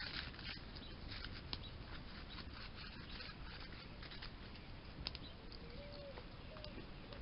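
Campfire crackling under a bamboo pole being heat-cured, with many small irregular ticks and pops over a steady hiss.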